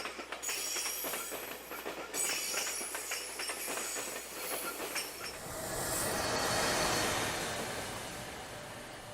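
Train passing on the rails: wheels clicking rapidly over the rail joints with a faint high wheel squeal, then about five seconds in a broader rushing pass that swells and fades away.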